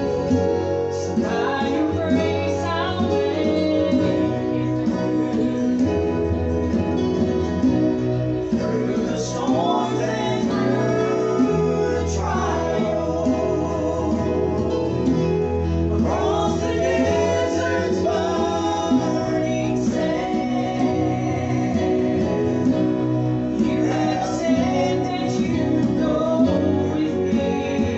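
A gospel group singing with guitar accompaniment, sung phrases over a steady strummed and bass backing.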